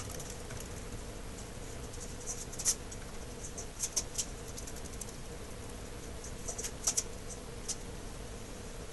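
Light, irregular scratching and small clicks over a steady low hum, with a few louder scratches about three, four and seven seconds in.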